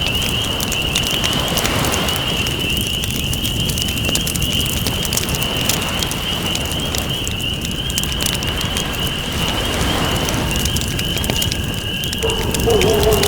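Campfire crackling with sharp little pops over a steady wash of ocean waves. A continuous high, wavering trill runs throughout, and a lower wavering call comes in about twelve seconds in.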